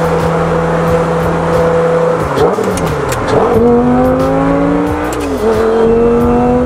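Lamborghini Gallardo's V10 engine heard from inside the cabin, holding steady revs, then dipping and picking up again through a gear change about two seconds in. The revs climb under acceleration, drop sharply at a shift near the end, and start climbing again.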